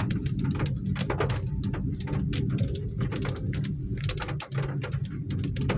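Pigeons cooing in a low, continuous drone, with many short, sharp chirps or clicks scattered over it.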